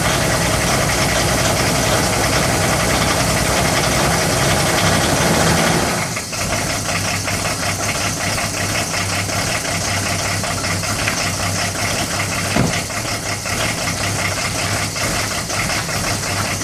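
Volvo 940's D24TIC 2.4-litre straight-six turbodiesel running cold at −12 °C. About six seconds in, the sound drops slightly and settles into a steady idle with a fast, even ticking.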